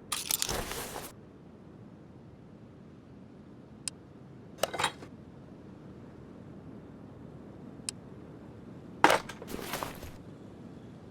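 Hard metal-on-metal clinking and rattling in three short bursts, as of engine parts or tools being handled, with two sharp single ticks between them.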